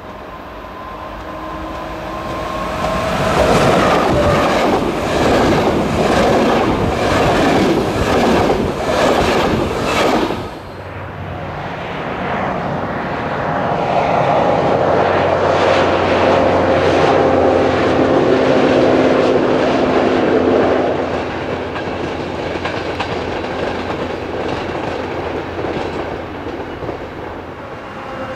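An OSE electric locomotive-hauled train passing close by: a rising rumble with a regular clatter of wheels over rail joints, about two clicks a second, cut off abruptly about ten seconds in. Then a second train runs past farther away, a steady hum with a few held tones that swells and then fades.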